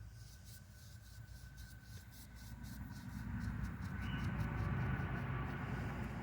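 A vehicle passing on a nearby road: a low rumble that swells over a few seconds and eases off near the end. Faint, rhythmic scratchy strokes, typical of a paintbrush working over rough concrete, run underneath through the first few seconds.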